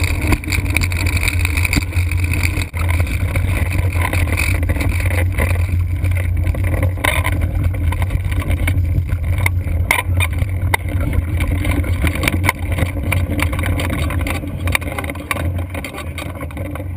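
Blokart land yacht moving fast: a steady low rumble of wind buffeting the microphone and wheels rolling, with scattered short knocks.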